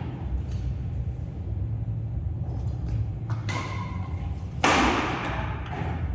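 Badminton rally: rackets striking the shuttlecock in a few sharp hits, the loudest about four and a half seconds in, over a steady low hum.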